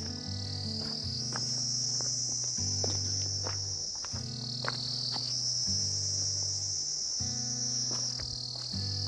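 Steady high-pitched insect chorus, like crickets, that sinks slightly in pitch and swells back a few times. Low sustained music notes change underneath every second or so.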